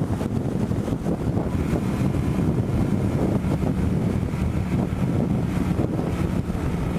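Wind rushing over the microphone with the steady running of a Honda Shadow Spirit 750's V-twin engine on the move.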